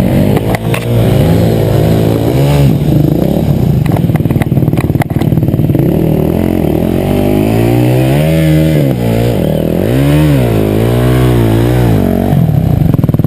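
Enduro motorcycle engine revving up and down repeatedly, its pitch swelling and falling several times in the second half. A few sharp clattering knocks come in the first seconds.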